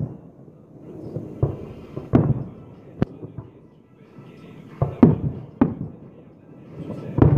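Aerial firework shells bursting in a display: a series of sharp bangs, about eight, unevenly spaced and some in quick pairs. Each bang trails off in a low rumble.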